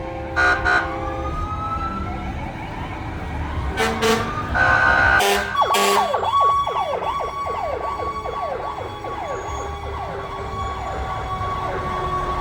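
Fire engines sounding off: short horn blasts early on, then from about halfway several sirens wailing at once, their rising and falling pitches overlapping, over a steady held tone.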